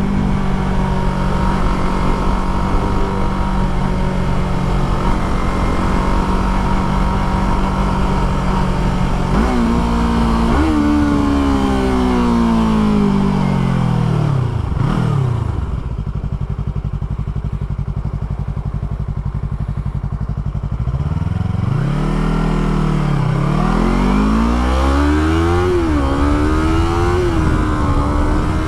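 Sport motorcycle engine heard from the rider's position: running at steady revs, then slowing down to a quiet idle for several seconds. Near the end it revs up again in steps as it pulls away through the gears.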